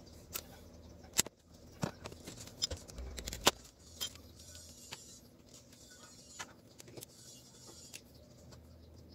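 Quiet, scattered sharp clicks and light taps of small parts and hand tools being handled on a workbench, most of them in the first four seconds, over a faint low hum.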